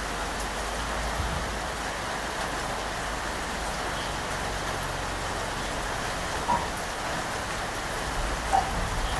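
Steady rain falling, with two louder single drops splashing, one about six and a half seconds in and one near the end.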